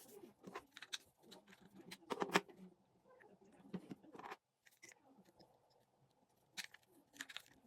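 Scattered small clicks, taps and scrapes of a spinning fishing reel's parts and tools being handled during repair, with the loudest cluster of knocks about two seconds in and a few more sharp clicks near the end.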